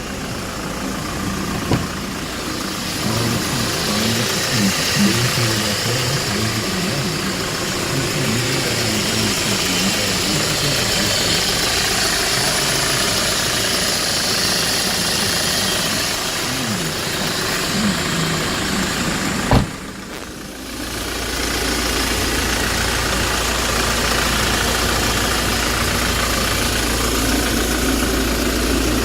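Hyundai Porter II small truck's engine idling steadily. About two-thirds of the way through there is one sharp knock, the sound dips for a moment, and then a deeper, steady hum carries on.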